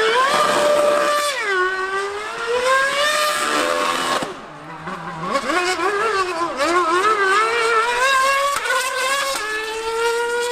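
High-revving racing engine running hard, its pitch climbing and dropping repeatedly through gear changes. The sound eases off briefly a little after four seconds in, then picks up again.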